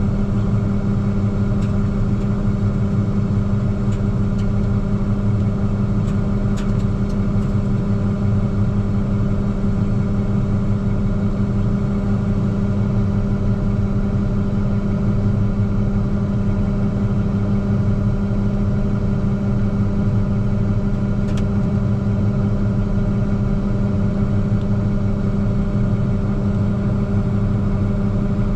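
Massey Ferguson 9690 combine's diesel engine running at a steady speed with a constant low hum, no rise or fall in pitch.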